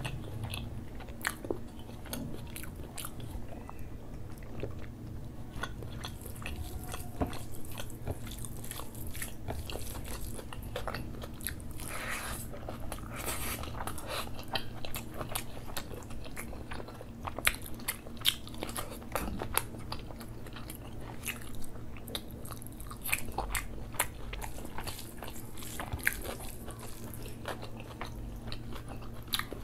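Close-miked chewing and biting of a mouthful of rice and butter chicken curry, with many sharp crunchy clicks throughout. A faint steady low hum runs underneath.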